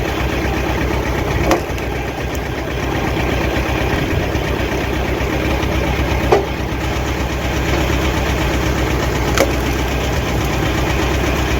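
Engine of a homemade hydraulic log splitter running steadily, with three sharp knocks spread through it.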